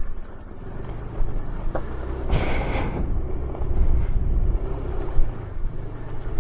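Scooter engine and belt-drive transmission running steadily while riding along, under a continuous rush of road and wind noise; a brief louder hiss of noise about two and a half seconds in.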